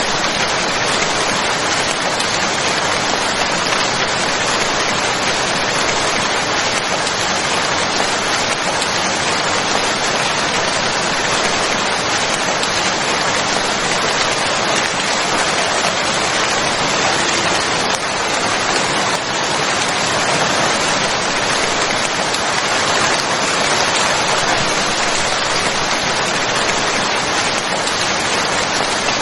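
Steady heavy rainfall, an even hiss of rain on surfaces that keeps an unchanging level throughout.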